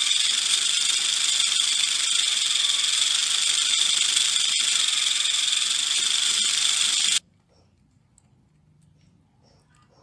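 Steady, loud hissing rattle that cuts off abruptly about seven seconds in, followed by near silence with a few faint clicks.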